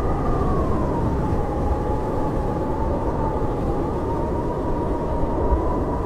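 Howling blizzard wind: a steady low rush with a thin whistling tone that slowly wavers up and down in pitch.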